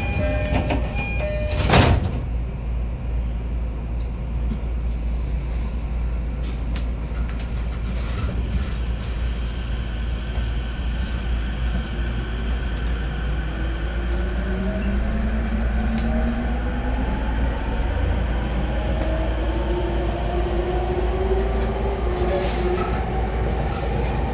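Inside an E231-series commuter train car: the steady rumble of running on the rails, with a single loud thump about two seconds in. Over the last ten seconds, the traction motors' electronic whine rises slowly in pitch as the train accelerates.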